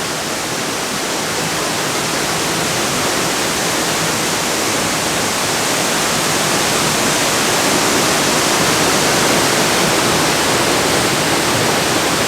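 Dry Falls, a large waterfall on the Cullasaja River, pouring steadily: a dense, even rush of falling water that grows slightly louder.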